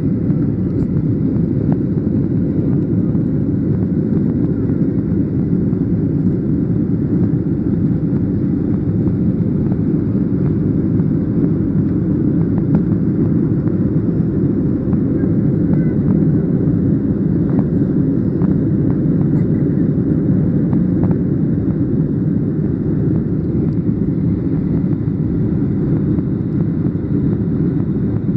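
Boeing 737-800's CFM56 jet engines running at takeoff power, heard inside the cabin as a loud, steady low rumble.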